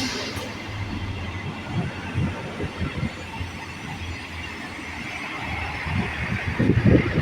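Class 158 diesel multiple unit running into the station along the platform: a steady diesel engine drone under wheel-on-rail noise. Wind buffets the microphone near the end.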